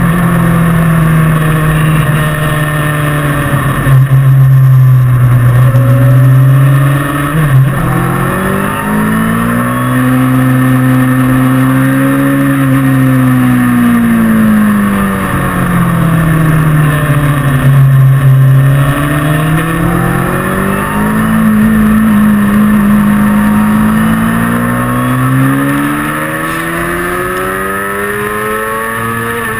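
Kawasaki ZX-6R 636's inline-four engine heard from on board while riding, its note rising and falling slowly as the throttle opens and closes through the bends. A steady rush of wind on the microphone sits under it.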